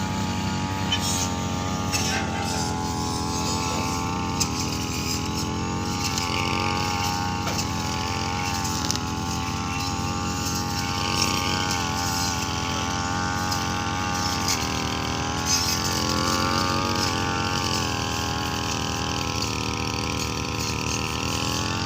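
A vehicle engine running steadily during the unloading of a combine harvester from a tow truck, its pitch wavering slightly, with a few faint knocks.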